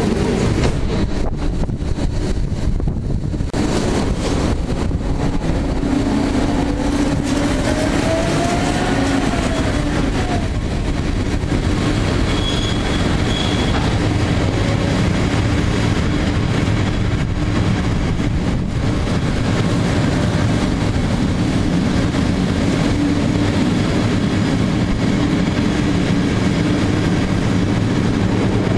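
Passenger train rolling slowly out of a station: a steady rumble of wheels on rails and running gear, with a faint whine that rises and falls in pitch several seconds in.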